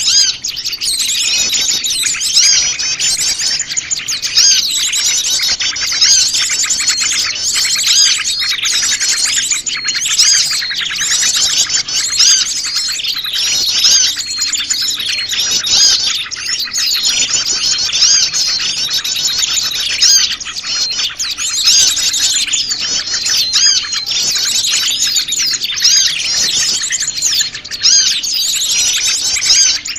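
A dense, loud chorus of many small wild songbirds chirping and twittering at once, overlapping without pause. It is a mixed small-bird lure call, used to draw wild small birds in.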